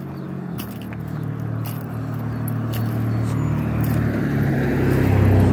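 A motor vehicle approaching on the street, its engine hum and tyre noise growing steadily louder toward the end.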